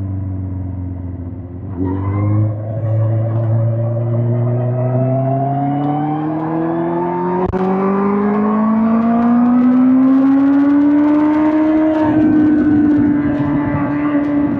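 2005 Suzuki GSX-R1000 K5 inline-four engine heard from the rider's position: the engine note drops off, then the throttle opens again about two seconds in and the revs climb steadily for about ten seconds before holding at a steady pitch near the end, with more rushing noise. A single sharp click about halfway through.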